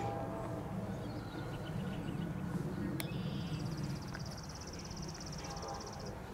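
Low, steady rumble of a train, with a sharp click about three seconds in. A bird's rapid high trill follows the click and lasts about three seconds.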